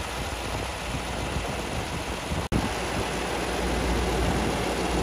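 Mercedes-AMG 4.0-litre twin-turbo V8 idling steadily with the bonnet open, with a constant low rumble under a broad hiss and a momentary gap about halfway.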